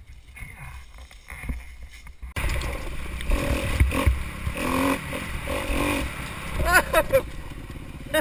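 Dirt bike engine running, louder from about two seconds in, with a few quick rises and falls in pitch near the end.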